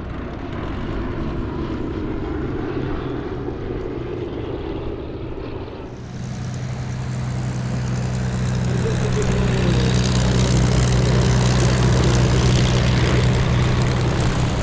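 Piston engines of a WWII propeller warbird in flight, a steady multi-tone drone. There is an abrupt change about six seconds in, after which the drone comes in fuller and grows louder as the aircraft closes in.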